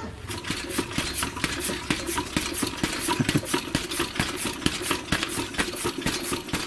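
Dnepr 12 sidecar motorcycle's suspension being bounced by a rider on the seat: a rapid, irregular series of clicks and knocks from the springs and shock absorbers working.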